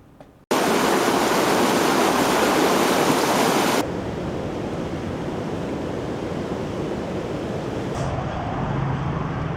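Rushing floodwater: a loud, steady rush of water noise that starts abruptly about half a second in, drops in level at about four seconds, and changes again near eight seconds.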